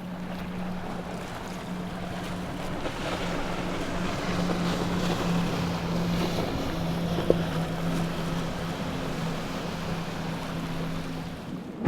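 A motorboat's engine running with a steady drone, over wind noise on the microphone and the wash of waves.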